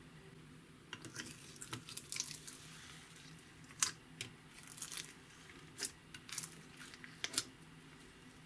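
Hands working clear slime: irregular sticky clicks, pops and crackles as it is stretched and squished, starting about a second in.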